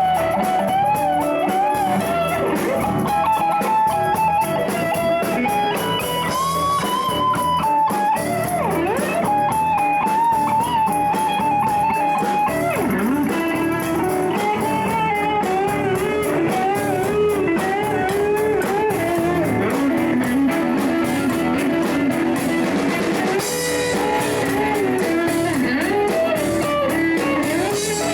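Live blues jam, with electric guitar playing bending melodic lines over a steady band accompaniment.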